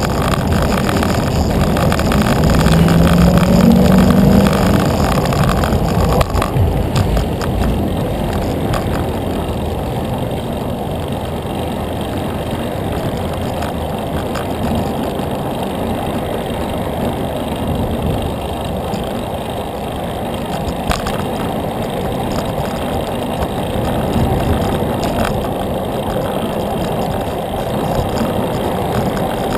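Steady rumble of wind and road noise from riding a bicycle on a road. A motor vehicle's engine swells and fades in the first few seconds.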